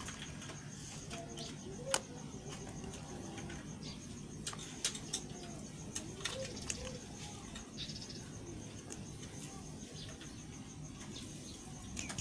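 Bar soap being cut and handled: scattered sharp clicks, the loudest about two seconds in, over a steady low hum.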